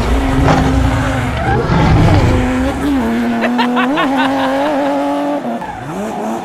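Cartoon vehicle sound effects: a pitched, engine-like hum that holds steady, wavers and steps in pitch, over a low rumble that drops away about halfway through.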